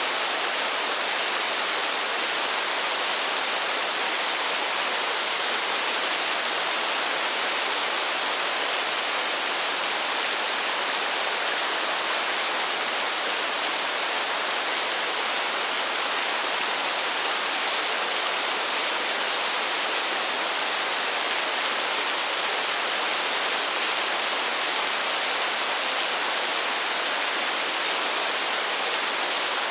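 Steady heavy rain: an even, unbroken hiss of water, with no single drops or changes standing out.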